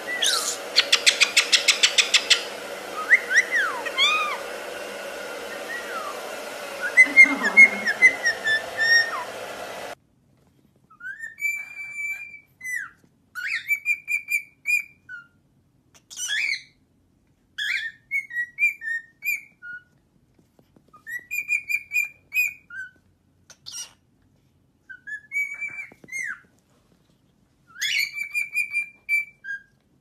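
Pet birds whistling and chirping in short phrases of rising and falling notes, with a quick rattling trill about a second in. A steady hum lies under the first ten seconds or so; after that the whistles sound against silence.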